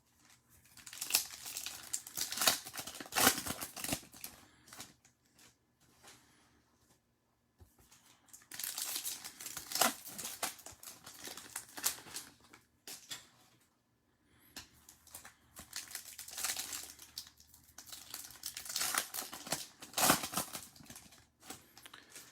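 Plastic trading-card wrappers and packaging crinkling and tearing as they are handled, in three spells with short pauses between them.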